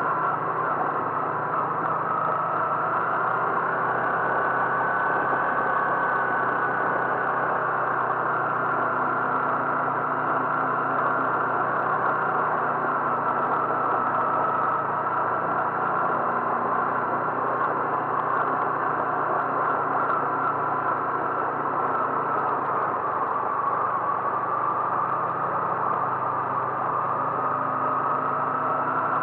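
Vehicle engine running steadily while driving, with a high whine that drifts slowly up and down in pitch.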